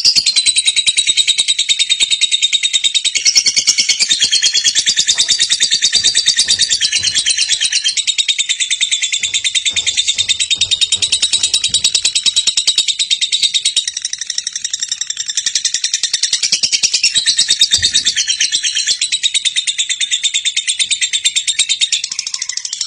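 Lovebird giving a long, unbroken, rapid high-pitched chatter (the 'ngekek panjang' trill), a fast stream of shrill pulses that barely pauses, dipping slightly in loudness about two-thirds of the way through.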